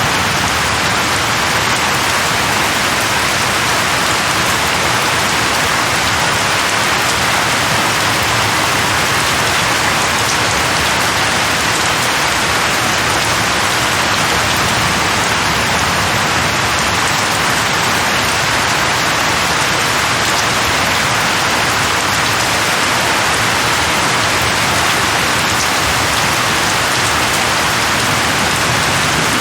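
Steady, heavy rain falling and pattering on a surface, an even continuous hiss with no breaks.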